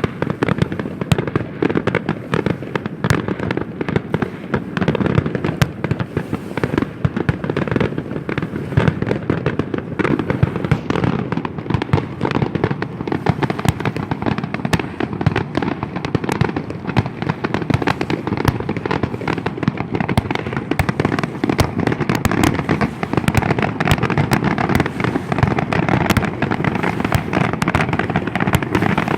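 Fireworks display going off as a dense, unbroken barrage of rapid bangs and crackling, with no pauses.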